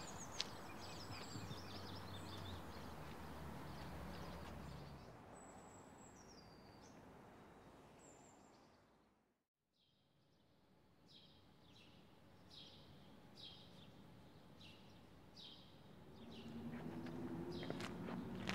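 Faint outdoor ambience with small birds chirping. It fades out to silence about halfway through, then fades back in with short high chirps repeating every second or so, and a low steady hum comes in near the end.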